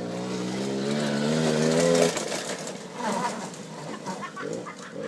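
Suzuki LT50 quad bike's small single-cylinder two-stroke engine running and revving up, its pitch rising for about two seconds before it cuts off suddenly. Scattered knocks and clatter follow.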